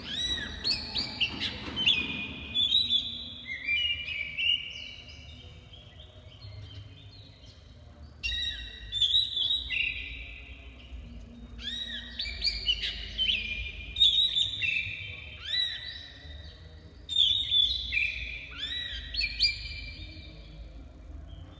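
Oriental magpie-robin (black-breasted kacer) singing energetically: bouts of quick, varied whistled phrases, with short pauses between the bouts.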